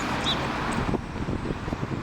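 Wind buffeting the microphone in uneven low gusts, over a broad rushing hiss that thins out about a second in.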